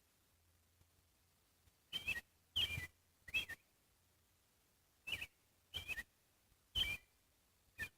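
A bird calling in short, sharp chirps, about seven of them spaced irregularly a second or so apart.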